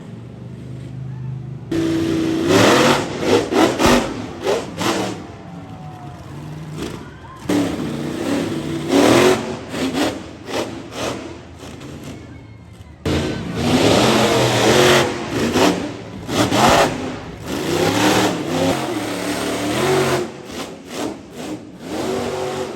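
Monster truck engines revving hard in repeated surges, with sudden jumps in level where short clips are cut together.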